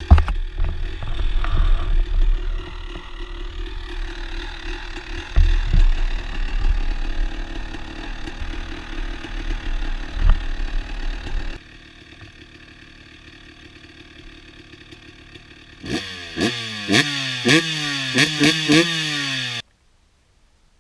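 Honda CR250R two-stroke single-cylinder motocross engine at full throttle in top gear, under heavy low rumble and knocks. About halfway through it drops to a quieter steady run. Near the end the engine revs up sharply several times in quick succession, each rise falling away, then cuts off suddenly.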